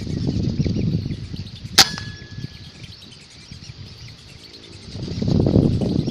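A single gunshot about two seconds in: one sharp crack followed by a brief metallic ring. Low muffled noise swells in the first second and again near the end.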